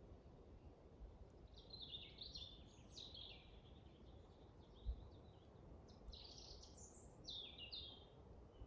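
Forest songbirds singing faint, twittering phrases in two bouts, one a little after the start and one in the second half, over a soft low rumble of wind. A single dull thump comes about halfway through.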